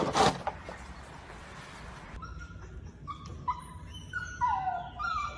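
A dog whining in a string of short, high whines, some sliding up and down in pitch, starting about three seconds in. A brief burst of noise comes at the very start.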